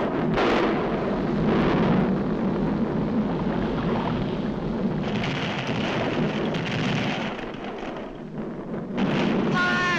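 Cartoon sound effect of a volcano erupting: a continuous heavy rumble like thunder, easing a little shortly before the end. In the last second a pitched, wavering tone comes in over it.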